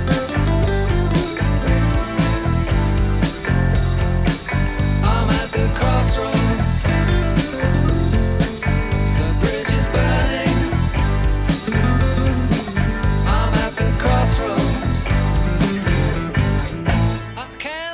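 Rock music: guitar over bass and drums with a steady beat, dropping off in loudness just before the end.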